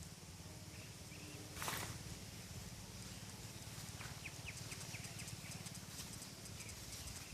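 A bird gives a quick run of short chirps about four seconds in, over a steady low rumble, with a brief noisy rush about one and a half seconds in.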